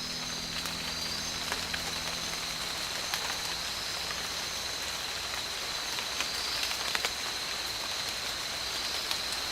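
Steady hiss of water, like rain falling, with scattered faint drips and clicks and a steady high whine throughout.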